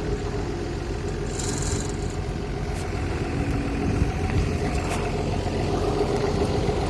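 A vehicle engine running steadily at idle. There is a short hiss about a second and a half in, and a few light clicks.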